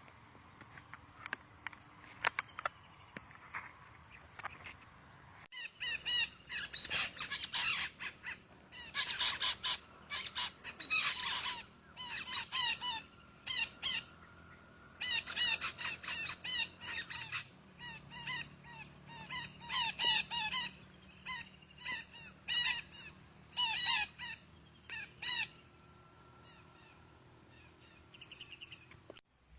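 Long-tailed parakeets calling in bouts of short, shrill, rapidly repeated notes. The calls start about five seconds in and stop a few seconds before the end.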